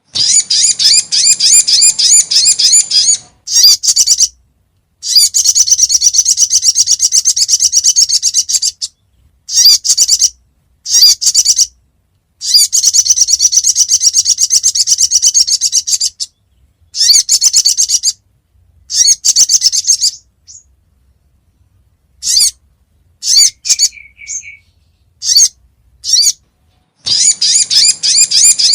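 Sogon (sogok ontong, the little spiderhunter) calling: rapid, evenly repeated high chirps in trains of one to four seconds with short pauses between, a lure recording meant to draw the bird in.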